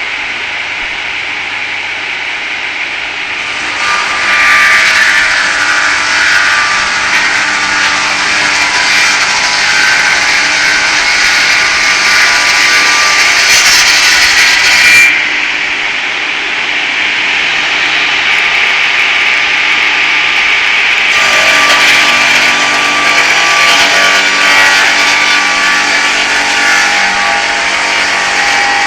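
Homemade circular-blade sawmill, driven by an 11 kW electric motor, running: the blade spins steadily at first, then cuts loudly into an oak log from about four seconds in, eases off for a few seconds past the middle, and bites in hard again for the rest.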